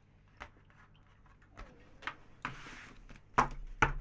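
Tarot cards being handled on a table: a few light clicks, a short sliding rustle about halfway through, then two soft knocks near the end.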